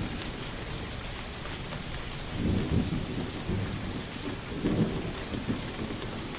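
Steady rain hissing, with two low rumbles of thunder swelling up, one about two and a half seconds in and another a couple of seconds later.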